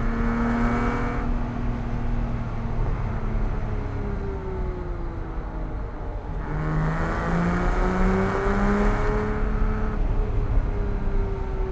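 Porsche 987.1 Cayman S's flat-six engine driven hard on a twisty road. It eases off about a second in, pulls with rising pitch under throttle from about six and a half seconds in, and lifts off again near nine seconds.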